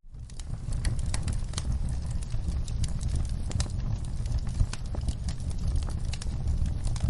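Wood fire crackling in a fireplace: a steady low rumble of the flames with many irregular sharp crackles and pops. It swells back in at the very start after a brief drop to near silence.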